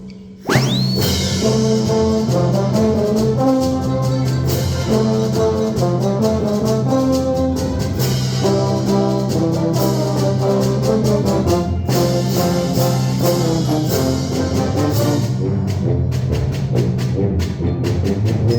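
Brass-heavy band playing a lively galop, with low brass holding a steady line under a moving melody. The music comes in about half a second in, just after a short high squeal that rises and falls.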